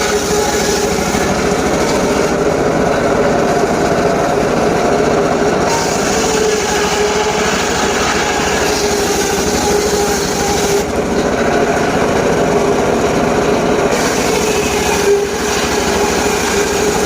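Engine-driven saw running steadily with a constant whine, its high hiss thinning out twice for a few seconds.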